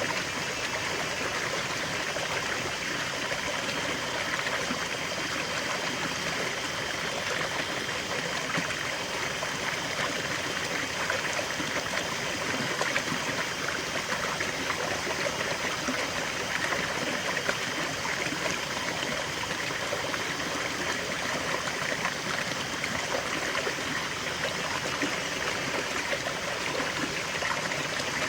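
River water flowing steadily over rocks, a continuous rushing and babbling with fine trickling detail.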